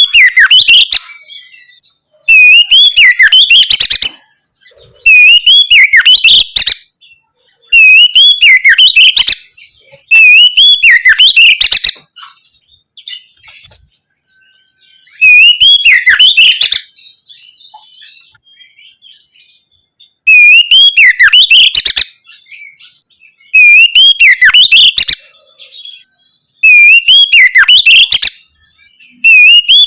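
Oriental magpie-robin (kacer) singing: loud phrases of quick rising and falling whistles, each a second or two long, repeated about every three seconds with short pauses between.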